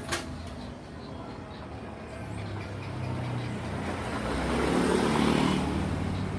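A motor vehicle's engine running, its sound swelling to a peak about five seconds in and then easing off, after a sharp click at the start.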